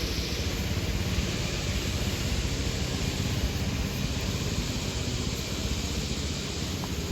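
Steady vehicle noise: a low engine rumble under a rushing hiss, unchanging throughout.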